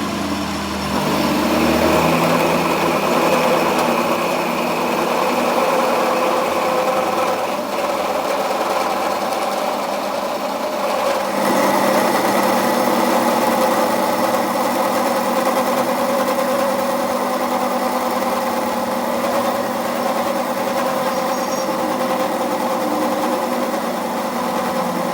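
A workshop machine's motor running steadily with a whine, its tone shifting about eleven seconds in.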